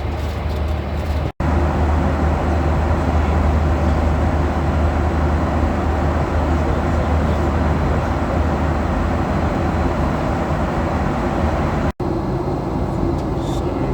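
Steady cabin noise of a Boeing 737-800 in flight, a constant deep rumble of engines and airflow. The sound cuts out for an instant twice, about a second in and near the end.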